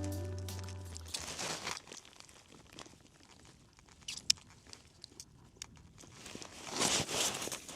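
Background music fading out about a second in, then faint crunching and crackling with scattered clicks, one sharp click about four seconds in and a short swell of noise near the end.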